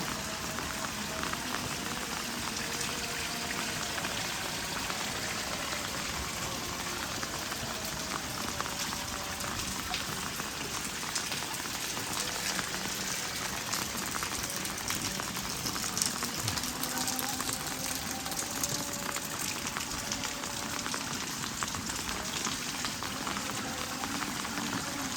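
Steady rain falling, with a dense scatter of sharp drop clicks and crackles over an even hiss.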